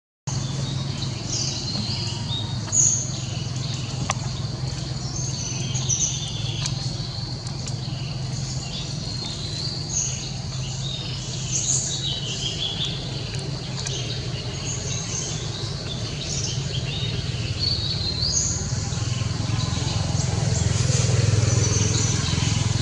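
Birds chirping, short high calls repeating every second or so, over a steady low hum.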